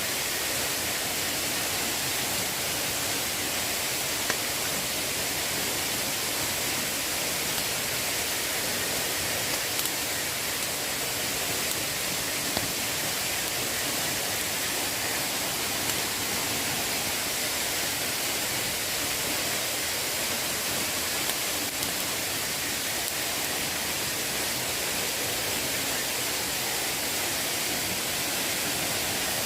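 Steady hiss of water, with a few faint ticks scattered through it.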